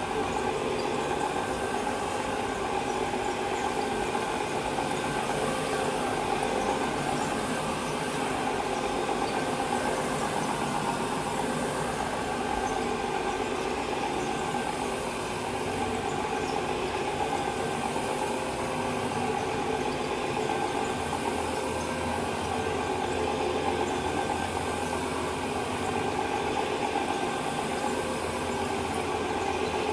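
Carpet-cleaning machine running steadily, with the constant hiss of a power washer in the background.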